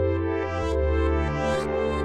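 Synthesizer music: a held bass note under a keyboard line of notes struck about every half second. The bass drops to a new note about half a second in.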